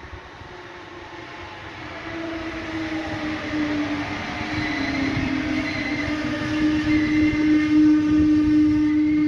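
Electric regional train approaching, its steady whine growing louder as it nears.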